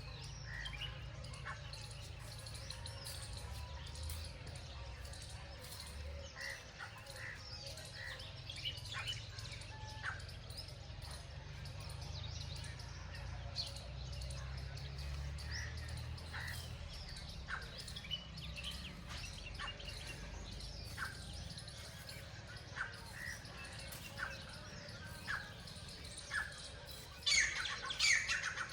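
Birds chirping in short scattered calls over a steady low rumble; near the end a loud burst of harsh squawking calls breaks in.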